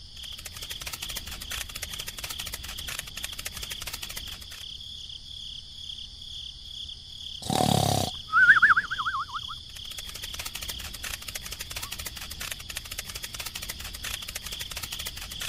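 Steady chorus of crickets chirping rapidly. About halfway through comes a short noisy burst, followed at once by a quick warbling whistle lasting about a second.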